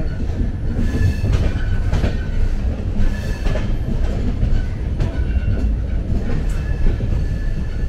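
Moving Indian Railways passenger train heard from inside the coach: a steady heavy rumble with rail clicks and clatter, and short high squeaks from time to time.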